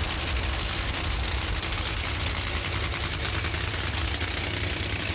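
Nitromethane-burning supercharged V8 Funny Car engines running, a loud, dense, rapid crackle over a deep rumble that goes on without a break.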